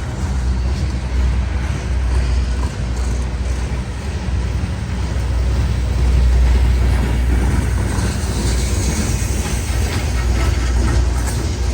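Train passing: a steady low rumble, with a hiss of wheel-on-rail noise building in the last few seconds.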